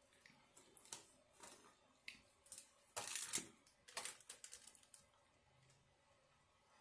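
Close-miked eating and food handling: a run of quick crisp clicks and crackles, loudest in a dense burst about three seconds in, then fading out about five seconds in.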